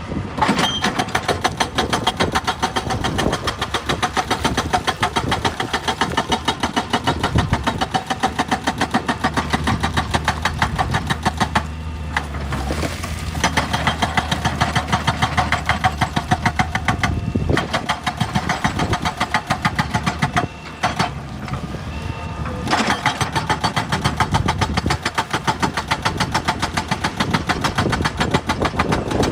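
Excavator-mounted hydraulic rock breaker hammering rock in a fast, even run of sharp blows over the diesel engine, pausing briefly a few times.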